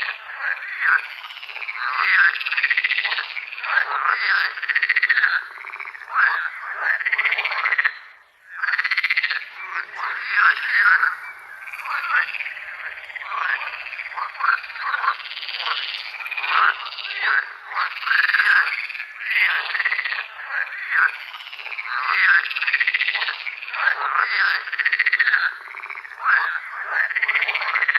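A chorus of frogs calling, with many short, arching croaks overlapping in a dense, continuous stream and a brief lull about 8 seconds in. The audio is processed as '8D audio', panning the sound around the listener's head.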